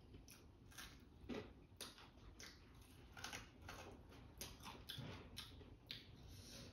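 Faint crunching and chewing of sauced crispy fried chicken: a person biting into it and chewing, with irregular small crunches and wet mouth clicks.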